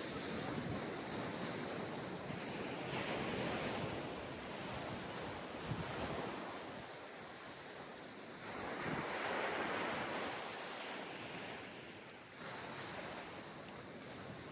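Ocean waves breaking and washing on a sandy beach, the surf swelling and easing twice, loudest near the start and again around the middle, with some wind on the microphone.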